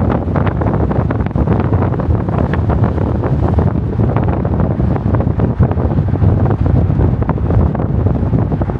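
Heavy wind buffeting the microphone: a loud, continuous low rumble with crackling.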